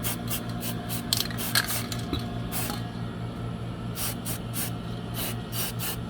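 Aerosol spray can hissing in many short, uneven bursts, as for spray-painting, over a steady low hum.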